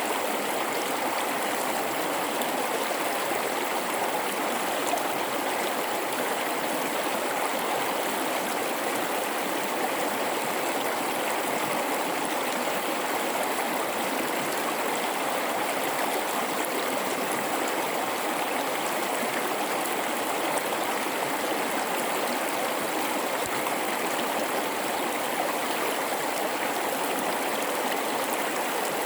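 Gorge river flowing over rocks: a steady, even rushing and babbling of water that never lets up.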